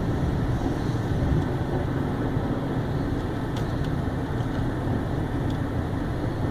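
Automatic car wash machinery running, heard from inside the vehicle: a steady low rushing rumble, with a few faint ticks about midway.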